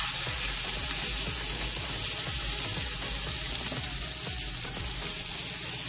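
Egg layer of a lachha paratha sizzling steadily in oil in a non-stick frying pan, egg side down.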